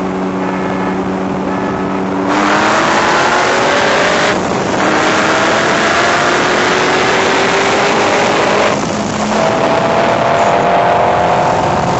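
Car engines in a street race: a steady engine drone, then about two seconds in a jump to full throttle with the engine note climbing hard. The pull breaks briefly at a gear shift about four seconds in and again near nine seconds, each time climbing again. Heard from inside one of the racing cars.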